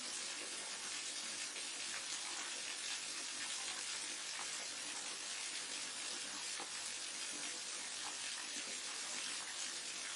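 Waterfall: falling water making a steady, even hiss with a faint crackle.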